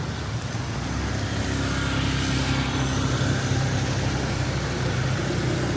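A motor vehicle's engine running close by in street traffic. Its low hum grows louder over the first two seconds, then holds steady over a background hiss.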